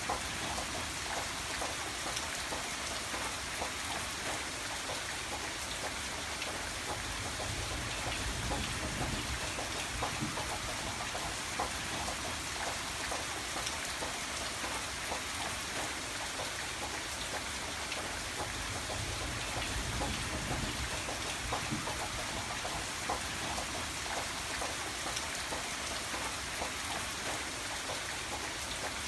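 Steady rainfall with many individual drops ticking, and a low rumble that swells twice.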